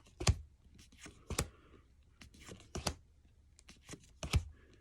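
Pokémon trading cards being flipped one by one through an opened booster pack, each card snapping against the stack: a string of short sharp clicks, four louder ones with lighter ones between.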